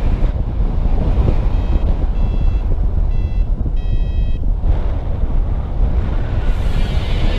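Strong wind buffeting the microphone, with a run of short electronic beeps in the middle, the last one held longer, typical of a paragliding variometer.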